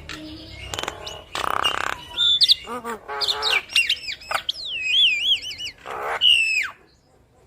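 Javan myna (jalak kebo) singing a varied, busy song of sliding whistles that rise and fall, mixed with harsh rasping notes and chatter. It stops shortly before the end.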